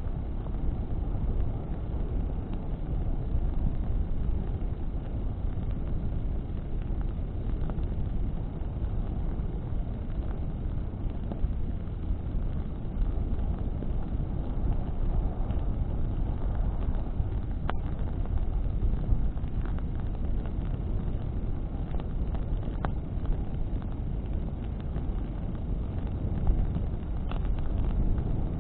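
Bonfire burning in the wind: a steady low rumble of wind and flames, with a few scattered crackles and pops from the burning wood.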